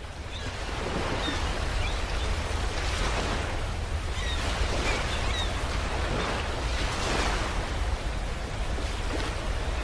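Steady rushing noise with a strong low rumble, like surf or wind outdoors, rising from a fade-in at the start. A few faint, short bird calls come through in the first half.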